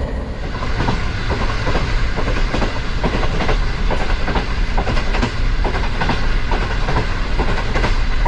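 A moving train: steel wheels clicking rhythmically over rail joints in a steady clickety-clack, over a continuous low rumble.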